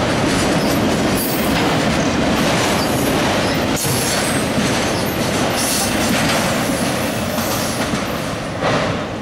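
CSX autorack freight cars rolling past close by: steel wheels rumbling and clattering on the rails, with brief high-pitched wheel squeals now and then. The noise drops off near the end as the last car goes by.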